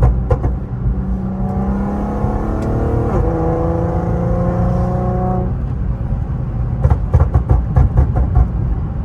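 Infiniti Q50 accelerating, its engine and exhaust note rising in pitch, then lifting off about five and a half seconds in, followed by a quick run of crackles and pops from the exhaust, the pops of a car tuned to shoot flames.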